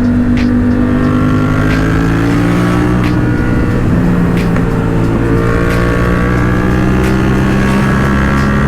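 Yamaha FZ-07 parallel-twin motorcycle engine running under way at a steady cruise, its pitch slowly rising and falling with gentle throttle changes, with wind rushing over the helmet microphone.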